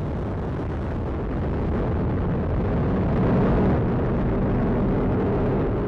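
Atlas V rocket climbing just after liftoff, its RD-180 main engine and two solid rocket boosters firing: a loud, deep noise with most of its weight in the low end. It swells about two seconds in and eases off near the end.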